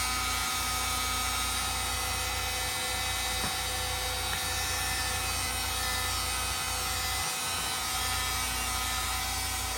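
A machine running steadily: a constant low hum with several steady whining tones above it, like a motor-driven fan or heater.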